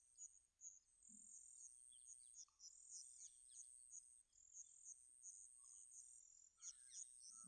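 Near silence, with faint, evenly repeated high cricket chirping and a few faint bird chirps.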